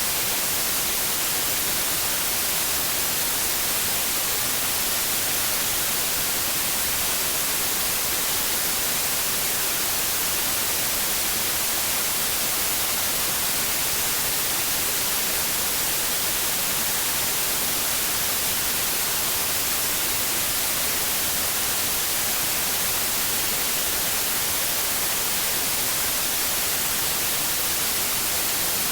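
Steady white noise, an even hiss without change, the kind played as a sleep aid for babies.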